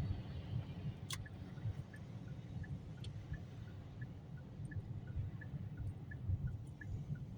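Steady low road rumble of a car driving on a snowy highway, heard inside the cabin. A faint quick ticking, a few ticks a second, runs underneath, with two sharp clicks about one and three seconds in.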